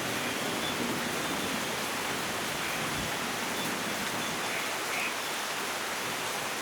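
Steady heavy rain, an even hiss of downpour.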